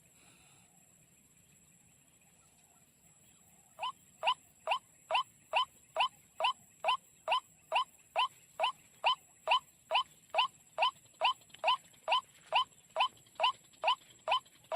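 A bird's call: short, sharp rising notes repeated steadily a little over twice a second, starting about four seconds in.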